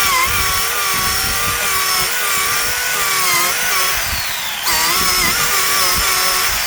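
Electric RC dirt bike's brushless motor whining at speed, its pitch wavering up and down with the throttle. The sound cuts abruptly to a fresh run of the same whine about two-thirds of the way in.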